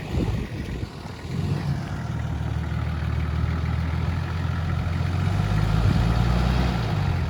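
4x4 engine running at low revs as it crawls over rocks. The steady hum sets in about a second in and picks up a little in revs and loudness in the second half.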